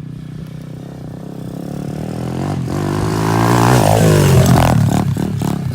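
Dirt bike engine running, then revving harder and growing louder as the bike accelerates toward and past the microphone on its run-up to a jump. The pitch sweeps up and down at the loudest point.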